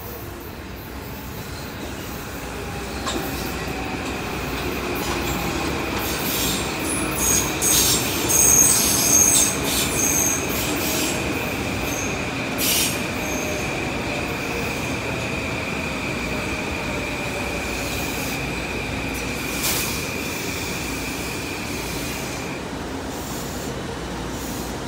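Metro-North M8 electric multiple-unit train pulling in and slowing to a stop: a hum that falls in pitch as it slows, under a steady high whine. There are shrill wheel squeals about seven to ten seconds in, and a couple of sharp clanks.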